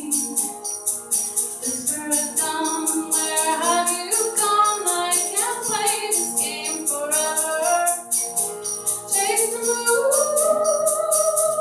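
Live band music: sitar and singing with gliding, bending notes over a steady rhythm of high-pitched percussion hits, several a second. Near the end a note slides up and is held.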